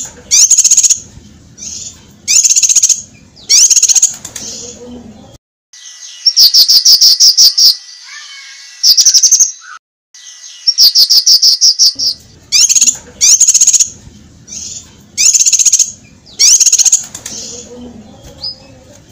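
Cucak kinoi singing: short, sharp bursts of rapid high chirps repeated every second or so, with two longer fast trilled runs in the middle.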